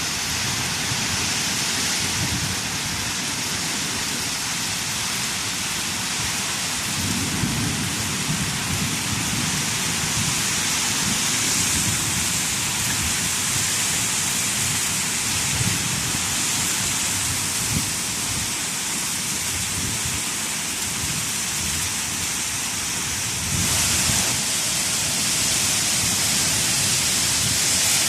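Hailstorm: heavy rain and hail pelting down in strong wind, a dense steady hiss with low rumbling, broken by a few sharp knocks. It grows louder about 23 seconds in.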